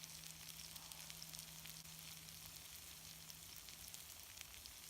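Eggplant frying in a pan over a campfire, a faint steady sizzle with scattered small crackles.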